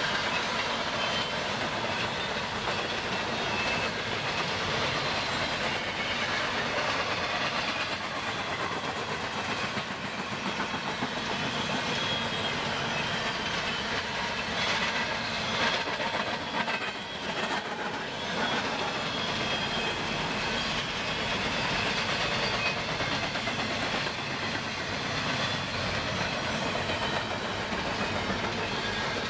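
Freight cars of a long train rolling past: a steady rumble and clatter of steel wheels on the rails.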